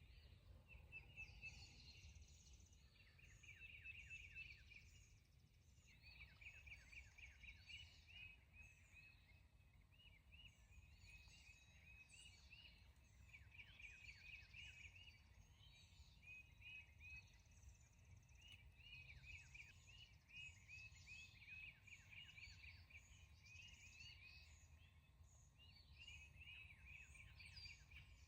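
Faint songbirds chirping and trilling over a low, steady outdoor rumble, with several birds calling in overlapping phrases throughout.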